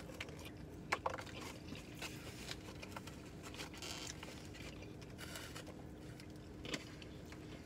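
Faint chewing and mouth sounds of someone eating crispy fried chicken fingers, with a few soft clicks and a brief rustle about midway as a finger is dipped into a sauce cup in a foam takeout box.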